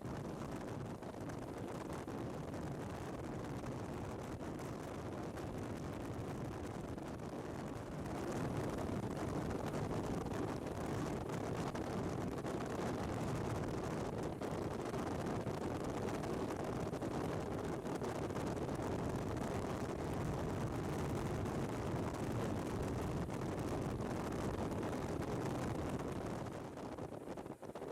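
BMW R1200GS flat-twin motorcycle underway, its engine running under steady wind and road noise. The sound grows louder about a third of the way in and dips briefly near the end.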